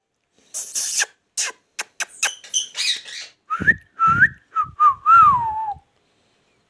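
Ringneck parrot calling: a run of short harsh squawks, then, about halfway in, a string of whistled notes that glide up and down. The last whistle is long and falls in pitch.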